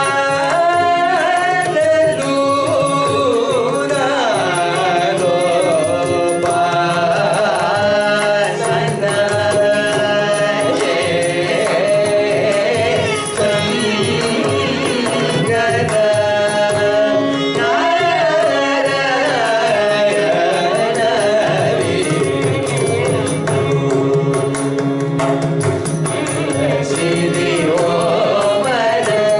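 Carnatic vocal singing, with heavily ornamented gliding phrases, over a steady drone and mridangam drumming.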